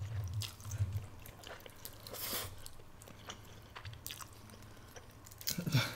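A person chewing a mouthful of spicy black bean noodles, with soft, wet mouth clicks scattered throughout.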